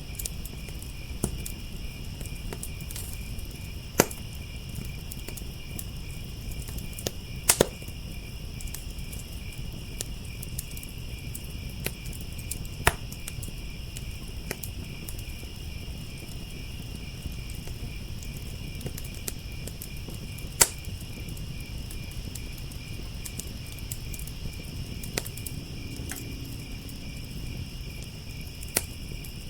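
Crickets chirping in a steady, fast pulse, over a wood fire crackling with a low rumble. Sharp pops stand out every few seconds, the loudest about 4, 7.5, 13 and 20 seconds in.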